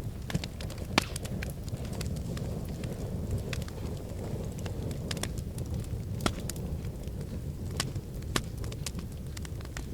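Wood fire in a fireplace crackling: irregular sharp snaps and pops over a steady low rumble, with the loudest pops about a second in and about six seconds in.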